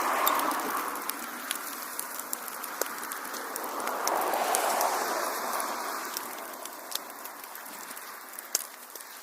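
Wood fire in a fireplace crackling, with many sharp pops scattered throughout over a soft rushing of flames that swells near the start and again around the middle.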